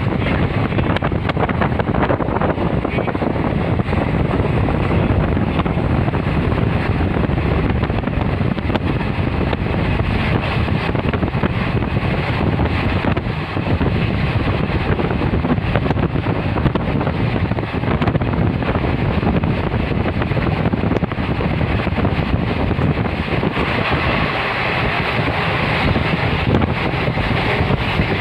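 Passenger train running along the line, its steady rumble and rush mixed with wind buffeting the microphone. The noise turns hissier about 23 seconds in.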